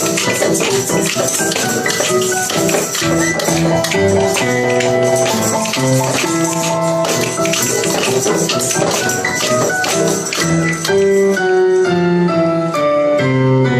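Music: a melody accompanied by tambourines and other small percussion shaken and struck in time, as in a children's rhythm-band ensemble.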